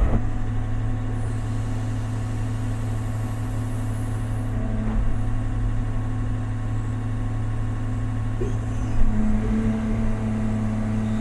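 Large excavator's diesel engine running steadily with a low hum, a higher tone stepping up about halfway through and again near the end as the machine works under load.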